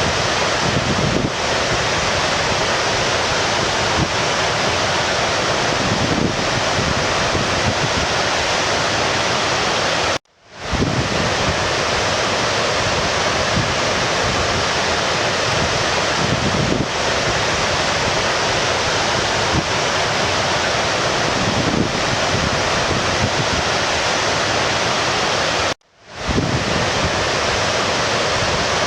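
A stream's running water rushes steadily. It cuts out abruptly twice, about ten seconds in and again near the end, and fades back in each time.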